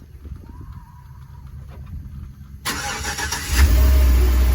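GMC Yukon XL cold-started by remote start: about two and a half seconds in the starter cranks briefly, and a second later the engine catches and runs at a loud, steady cold fast idle.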